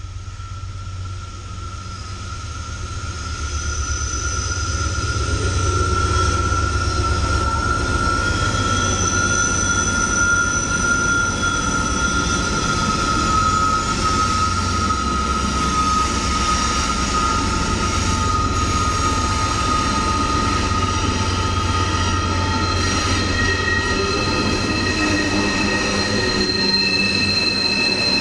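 Norfolk Southern diesel freight train of wood chip cars passing close by on a bridge. Its low rumble builds over the first several seconds as the locomotive arrives, then holds steady under a continuous high-pitched squeal from the steel wheels on the rails.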